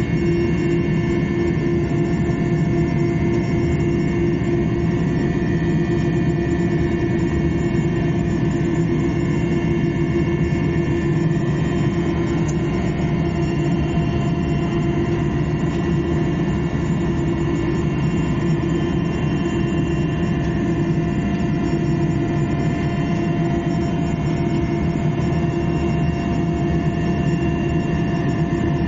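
Aircraft engine noise heard from inside the cabin during a flight: a steady, unbroken drone with a constant hum and whine over a heavy rumble.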